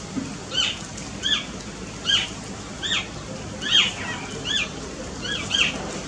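A bird giving a run of short, arched chirps, about one every three-quarters of a second, with a quick double chirp near the end.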